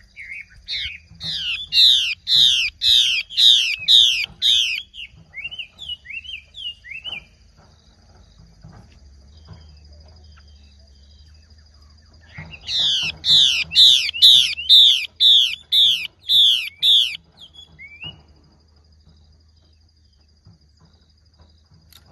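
Hwamei (Chinese thrush) calling in what is offered as a female's call for luring males. It gives two bouts of rapidly repeated, downward-sliding whistled notes, about two a second. The first bout trails off into a few lower notes, and a quiet gap separates the two. A faint steady high tone runs underneath.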